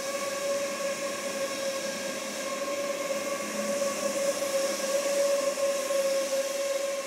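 A train with a steady electric-sounding hum over a hiss of running noise.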